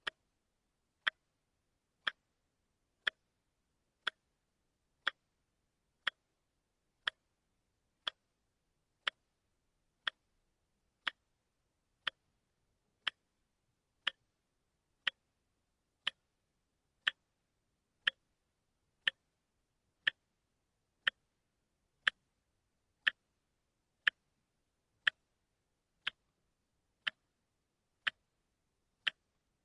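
A watch ticking steadily, one sharp, dry tick a second, with silence between ticks.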